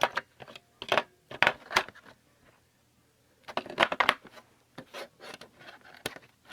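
Bursts of clicks and plastic rattles from the animatronic reaper toy being handled and switched on for a test, in about five short clusters with a single sharp click near the end. No motor hum is heard.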